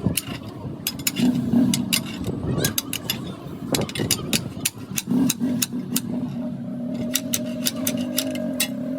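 Workshop clatter: irregular sharp metallic clicks and taps over a steady low motor hum, with a higher tone joining the hum about two-thirds of the way through.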